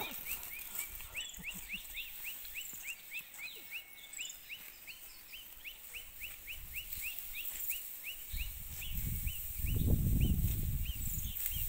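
A bird calling a long run of short, rising chirps, about three a second. A low rumble comes in about two-thirds of the way through and is loudest near the end.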